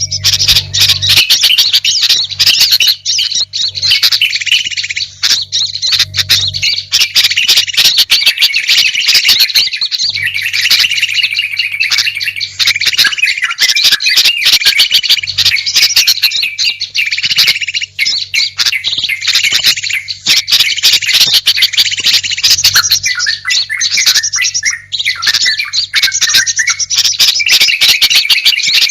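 Bird-lure (pikat) recording: many small songbirds' chirps, trills and chattering calls layered into one dense, continuous, loud chorus, made to draw wild birds in.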